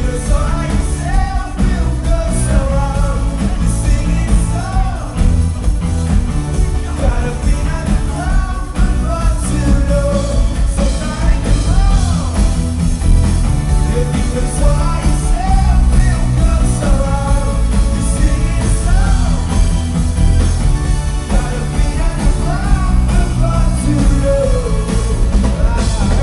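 A rock band playing live, with a singer's voice over electric guitars, bass and drums.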